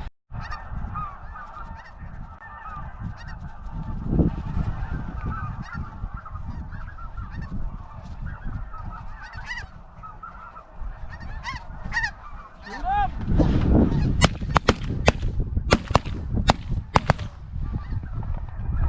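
A flock of geese calling, with many overlapping honks over a low rumble. From about three-quarters of the way in, a quick run of sharp, loud cracks.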